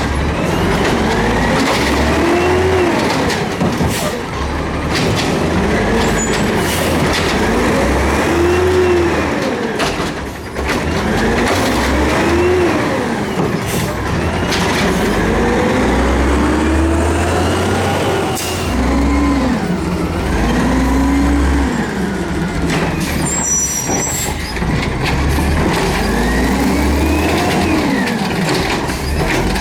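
Garbage truck's diesel engine revving up and falling back repeatedly, a rise and fall in pitch every two to three seconds over a steady low rumble.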